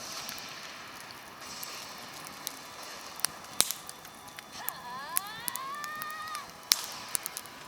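Campfire crackling, with irregular sharp pops over a steady hiss. About five seconds in, a thin whistling tone rises in pitch and holds for about a second and a half, then stops.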